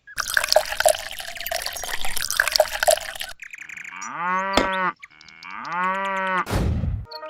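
Water splashing and running for about three seconds, then a cow mooing twice, each moo a long call that rises, holds and falls.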